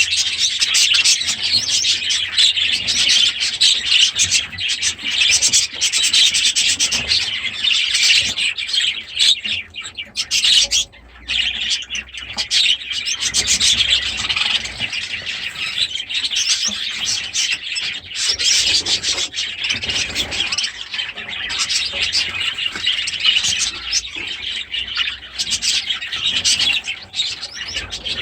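Cage birds, budgerigars and Gouldian finches, chattering and chirping continuously in a dense, scratchy warble, with a brief lull about eleven seconds in.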